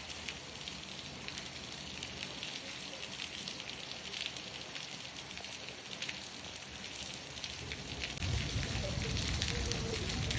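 Steady rain falling, a dense patter of drops. Near the end a low rumble of thunder rises and the sound grows louder.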